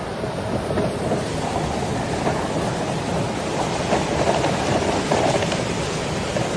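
Heavy rain pouring, a steady dense rushing hiss of storm water.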